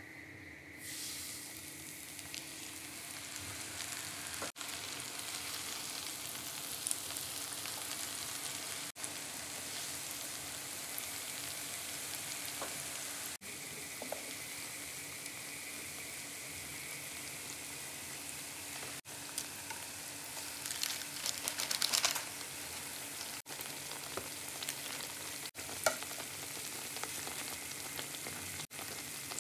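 Mashed-potato swirls on parchment paper frying in hot cooking oil in a pan: a steady sizzle that starts about a second in and drops out for an instant several times. A few brief, louder clatters come about two-thirds of the way through.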